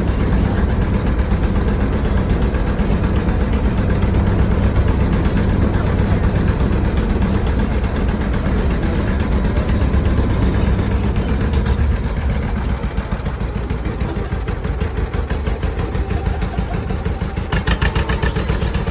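Tractor engine running steadily while pulling a trolley, a low, pulsing drone that eases off a little about two-thirds of the way through. A short patter of light ticks near the end.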